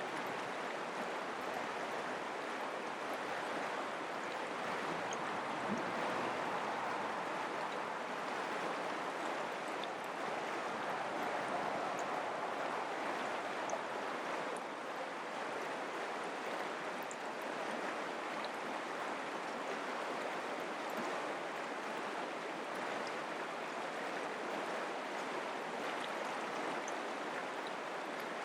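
Mountain creek flowing, a steady, even rush of water with no break.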